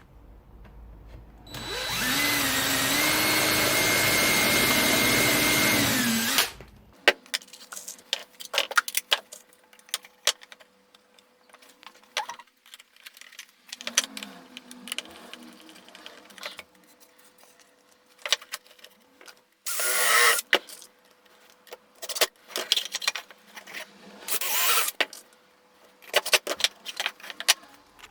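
A power tool motor starts, spins up quickly to a steady run for about five seconds, then stops. It is followed by scattered clicks and knocks of parts being handled, with a couple of short scraping bursts.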